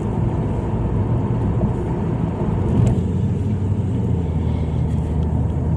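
Car interior noise while driving: a steady low engine and road rumble inside the cabin.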